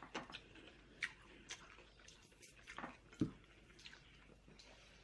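Faint eating sounds: scattered soft wet smacks and small clicks of chewing, as small fried sapsap (ponyfish) is eaten bones and all, with one slightly louder smack about three seconds in.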